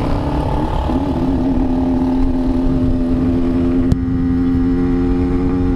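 Yamaha RX-King's two-stroke single-cylinder engine running while riding, its pitch rising briefly about a second in and then holding steady. A single click near the middle.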